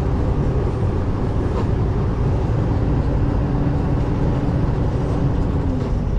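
Semi truck's diesel engine running steadily as the truck drives under way, a continuous low drone.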